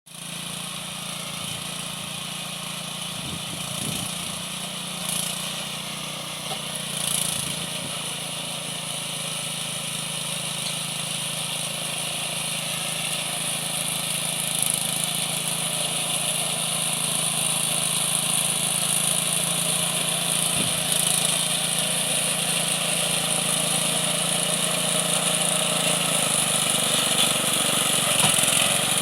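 Homemade mini tractor's engine running steadily, growing gradually louder.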